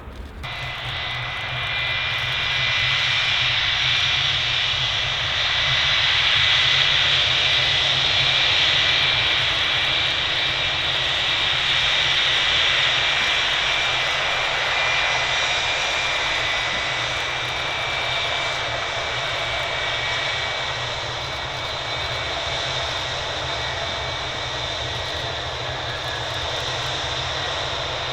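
Boeing 757-300 airliner's jet engines passing during its landing, a steady rushing noise with a high whine over it, loudest several seconds in and then slowly easing.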